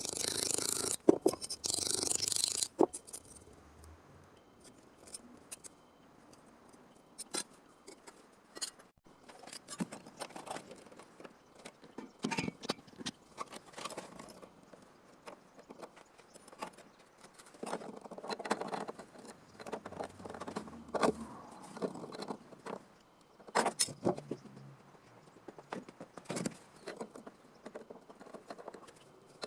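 Irregular clicks, knocks and scrapes of hand work on sheet-metal car body panels, with a louder hissing, scraping burst in the first three seconds.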